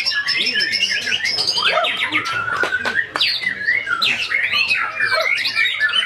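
White-rumped shama (murai batu) singing a continuous, varied song of rapid whistles, sliding notes and sharp chips.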